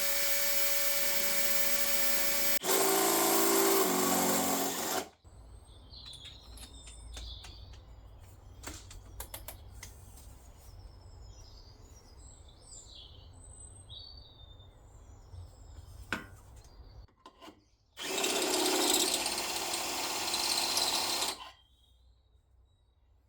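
Electric drill boring a hole through the car's repaired sheet-metal footwell panel, running steadily, then getting louder and lower-pitched as it bites about two and a half seconds in, and stopping near five seconds in. A second burst of drilling comes about eighteen seconds in and lasts some three seconds.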